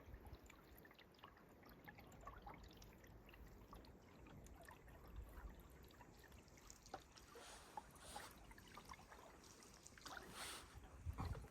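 Faint canoe paddling on calm water: small drips and trickles off the paddle, with two soft swishing strokes about eight and ten and a half seconds in.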